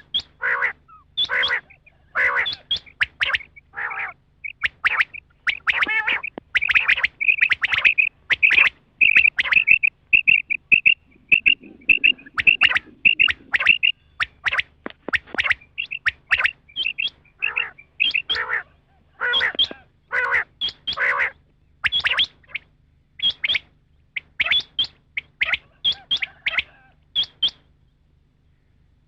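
Rain quail (batair) calling: a long series of short, sharp repeated notes with brief pauses between phrases, running quicker and more evenly for a few seconds near the middle. This is the call played as a lure for quail hunting, with a faint steady hum under it.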